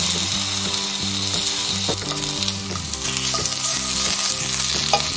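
Slices of sweet potato, tomato and onion sizzling in olive oil in a hot nonstick frying pan, a steady frying hiss. A couple of light clicks break in, about two and five seconds in.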